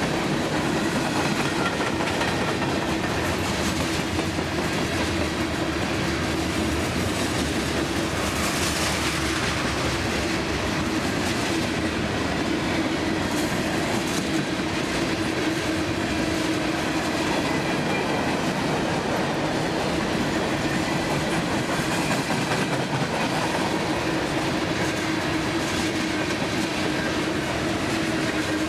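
CSX freight train cars rolling past at speed: a steady rumble of steel wheels on rail with rhythmic clickety-clack over the rail joints.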